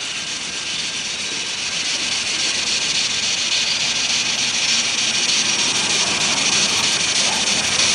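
A steam train approaching along the line: a steady rushing hiss that grows louder throughout.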